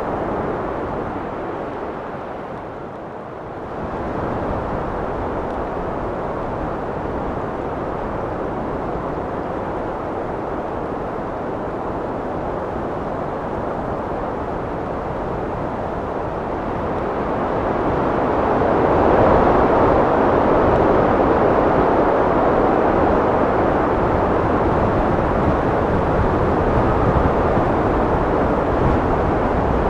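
Wind blowing, a steady rushing noise. It eases off briefly a few seconds in, then swells louder about two-thirds of the way through and holds there.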